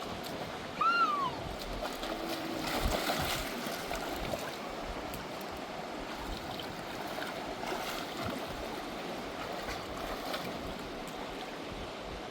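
Steady rush of a fast river. About a second in, a short high call falls in pitch.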